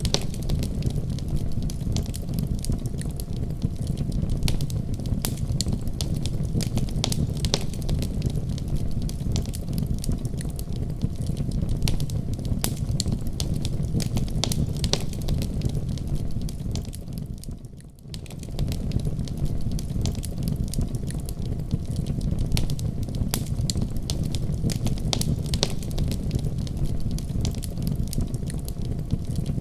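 Wood fire in a fireplace crackling, with frequent sharp pops and snaps over a steady low rumble of the flames. About eighteen seconds in, the sound briefly fades down and comes back.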